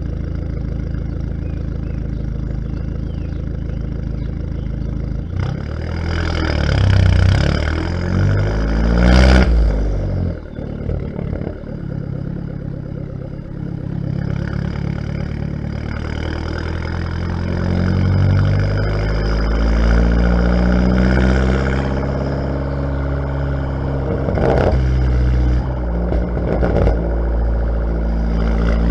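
Fiat Bravo T-Jet's 1.4 turbocharged four-cylinder engine, heard at the exhaust from outside the car, idling and being revved. The revs climb to a peak about nine seconds in and fall back sharply, rise again more slowly and hold higher, then two short blips of the throttle come near the end.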